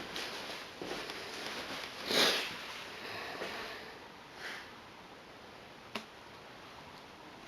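A short sniff about two seconds in, a fainter breathy sound about four and a half seconds in, and a single sharp click about six seconds in, over quiet room tone.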